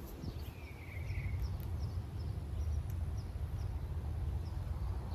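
Outdoor garden ambience: a steady low rumble under a run of short high chirps, about two a second, with one longer falling call near the start.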